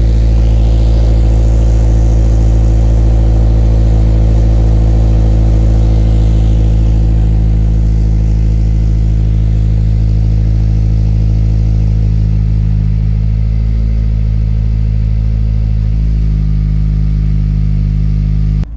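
Honda S2000 four-cylinder engine idling steadily through a Remark EQZ Spec exhaust during a cold start, easing slightly quieter in the second half. The sound cuts off abruptly near the end.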